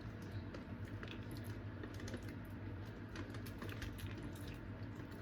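Crab shells being picked apart by hand, with many small irregular clicks and cracks and wet squishing from the sauce-coated seafood.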